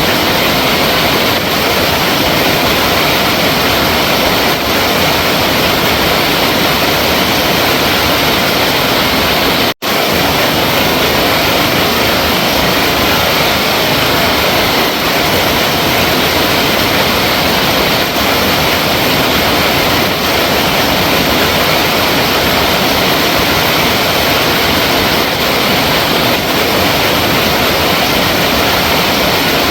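Flowing water rushing steadily in a dense, even hiss, with one momentary gap about ten seconds in.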